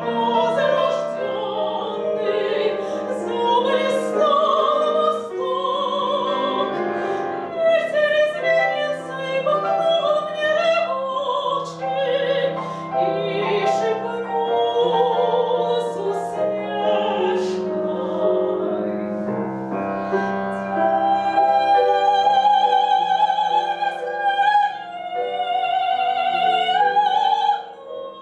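Soprano singing a classical art song with piano accompaniment, her voice wavering in vibrato over the piano. Near the end she holds long high notes, then stops, and the piano carries on alone more softly.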